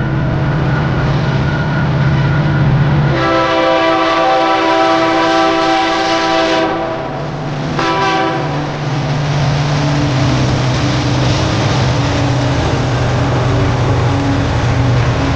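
Propeller aircraft flying low and loud, with a steady low drone and a louder chord of steady tones from about three to seven seconds in.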